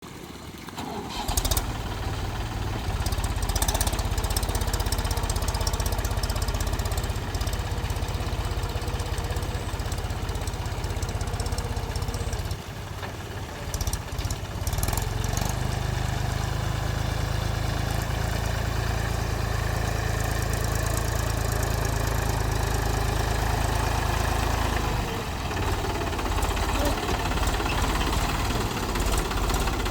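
Mahindra 275 DI TU tractor's three-cylinder diesel engine running steadily. It comes in abruptly about a second in and drops briefly near the middle.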